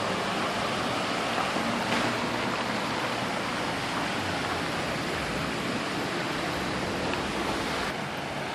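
Steady rushing of water pouring from a burst water main and flooding the street.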